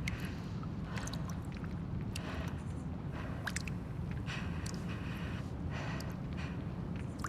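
Ambient soundscape of an empty, abandoned building: a steady low rumble under scattered short creaks, ticks and rustling noises.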